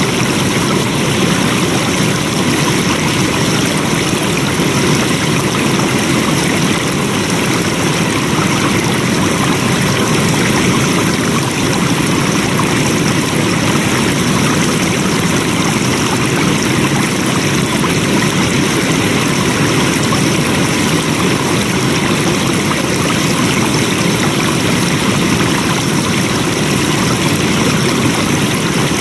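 Flowing stream water: a steady, even rush of running water without pauses or distinct splashes.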